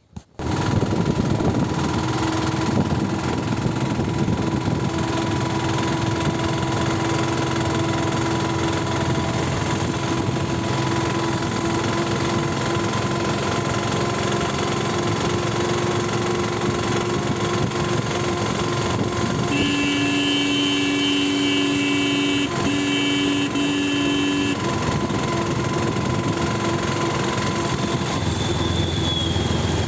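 City road traffic: vehicle engines running steadily with road noise. About two-thirds of the way through, a vehicle horn sounds for about five seconds, broken once partway.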